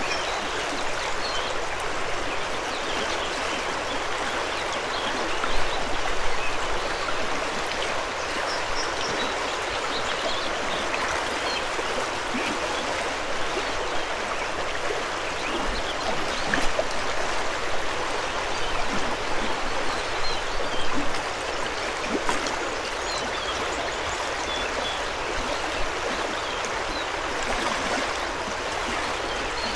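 Mountain river rushing steadily over rocks, with a few louder surges, and faint high bird chirps now and then above the water.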